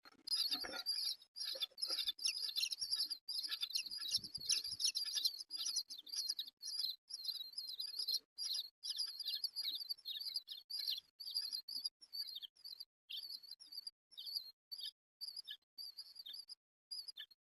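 Nestling birds in a nest box calling over and over: a dense chatter of short, high cheeps, many overlapping, which thins to separate calls toward the end.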